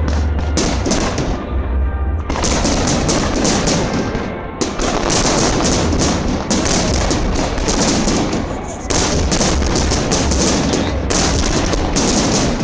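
Fireworks display at full intensity: rapid, overlapping aerial shell bursts and crackling with deep booms, almost without a break; the bursts thin out briefly just after the fourth second and again near the ninth.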